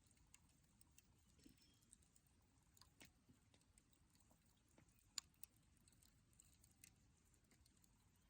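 Campfire crackling faintly: scattered sharp snaps and pops of burning wood at irregular intervals, the loudest a little past halfway, over a faint low background noise.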